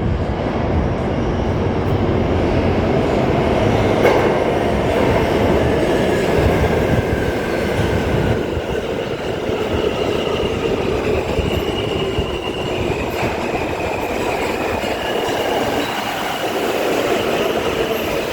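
New York City subway train running between stations, heard from on board: a steady rumble of wheels on the track. From about eight seconds in, high-pitched wheel squeal rises over the rumble.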